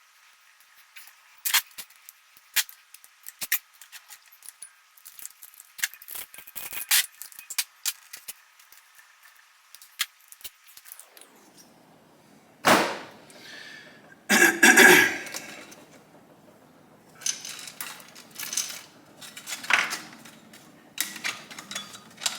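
Hand tools and small metal engine parts clicking and clinking during the teardown of a 1978 Kawasaki KZ1000 engine, with two louder knocks about halfway through.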